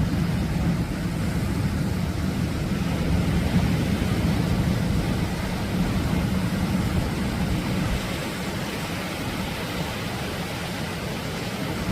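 Atlantic ocean surf breaking on a beach: a steady rushing roar, heaviest in the low end, that eases a little about two-thirds of the way through.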